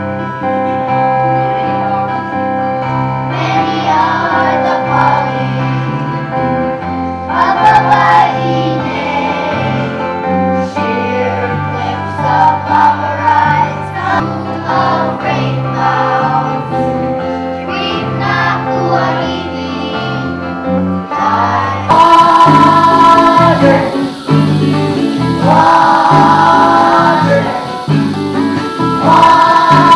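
A group of children singing a song together with instrumental accompaniment. About two-thirds of the way through, the sound becomes louder and brighter.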